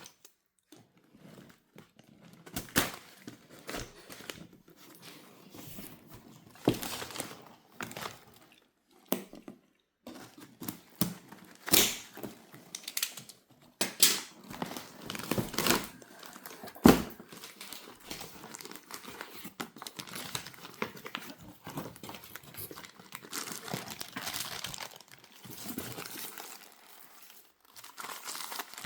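Packaging being unwrapped by hand: irregular crinkling and rustling of wrapping, with brief tearing and a few sharp knocks, the loudest about two-thirds of the way through.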